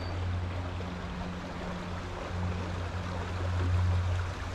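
Small stream rushing over a splashy riffle, a steady wash of running water with a low rumble underneath that swells a little near the end.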